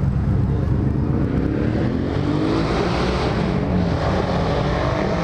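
A motor vehicle accelerating past, its engine rising in pitch and loudest about three seconds in, over a steady low engine rumble.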